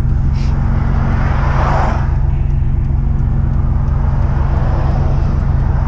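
Car engine running steadily at cruise, a low even drone, with road and tyre rush that swells about two seconds in and again near the end.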